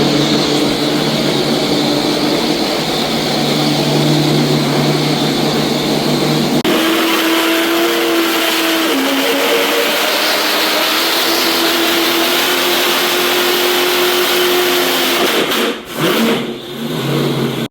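Methanol-fuelled car engine running loud and steady at held revs on a dyno through side-pipe exhausts. Its note jumps abruptly higher about six and a half seconds in, then wavers, and it dips twice briefly near the end.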